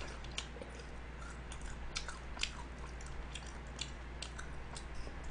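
Mouth chewing a bite of fried chicken, with small irregular crunches.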